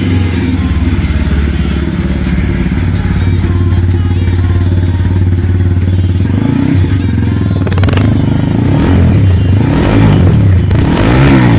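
TVS Apache RTR 160 4V motorcycle's single-cylinder engine idling through its exhaust, then revved in a few quick throttle blips in the last few seconds, each rising and falling in pitch.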